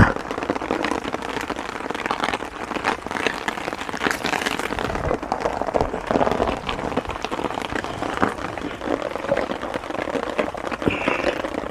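Heavy rain falling, a dense steady wash with many sharp, irregular drop strikes close by.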